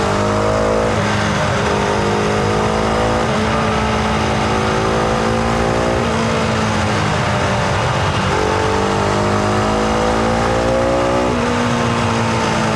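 Husqvarna Vitpilen 701's single-cylinder engine and exhaust under way, pulling hard with the pitch climbing and then dropping sharply at each upshift, about a second in, around three seconds in and near the end. The note breaks up for a couple of seconds around the middle before it climbs again.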